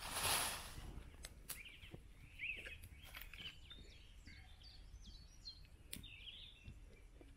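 Small birds chirping and singing in woodland, with many short calls throughout. A short burst of noise in the first second is the loudest sound, and a few faint clicks come later.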